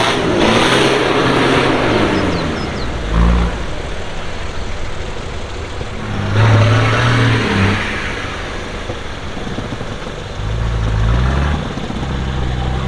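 Off-road 4x4 engine revving up and falling back several times, with a longer, louder rev about six seconds in, over a steady rush of running noise.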